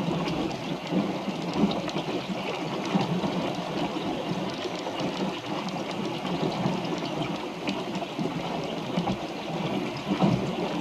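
Water splashing and rushing steadily, with small irregular ticks and knocks through it.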